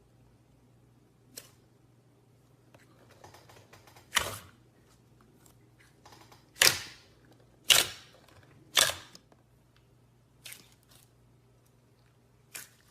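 A series of about seven sharp clicks or snaps at irregular intervals, the loudest four in the middle, over a faint steady low hum.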